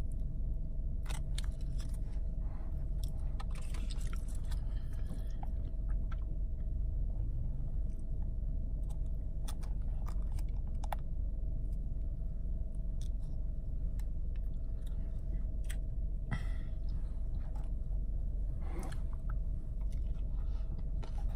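A person chewing food close to the microphone, with scattered short mouth clicks and smacks. A steady low hum runs underneath.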